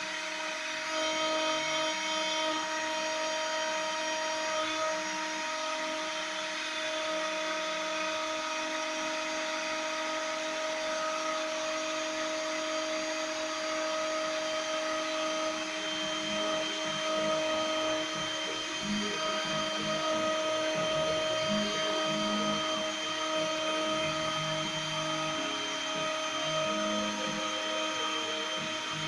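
Small CNC router milling a printed circuit board: the high-speed spindle whines at a steady pitch throughout, with lower tones that shift in pitch and come and go through the second half.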